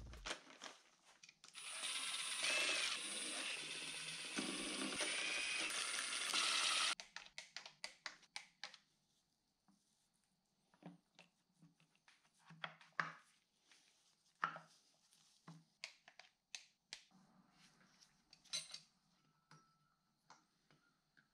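A handheld power tool runs for about five seconds, its motor pitch dipping and rising, while engine parts are refitted. After that come scattered light clicks and clinks of parts and tools being handled on the engine.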